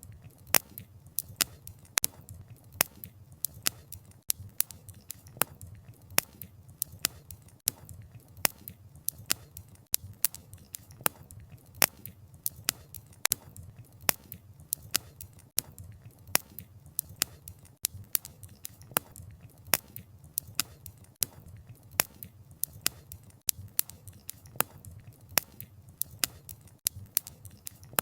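Wood fire crackling: sharp snaps and pops of burning logs, several each second at uneven intervals, over a low steady rumble of the flames.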